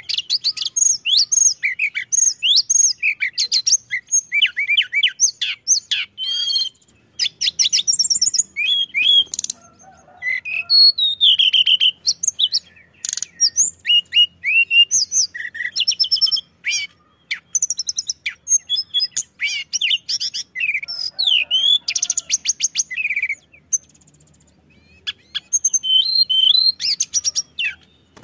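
A tledekan gunung songbird singing a fast, varied song of sweet whistles, upward and downward glides, chirps and rattling trills, with a short pause near the end.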